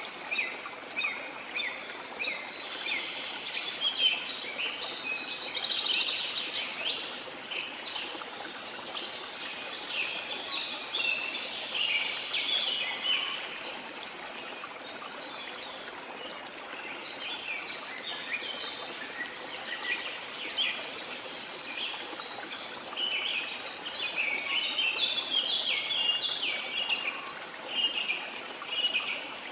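Steady rush of a waterfall, with many birds chirping and calling over it in quick short notes; the birdsong is busiest in the first half and again near the end, thinning out in the middle.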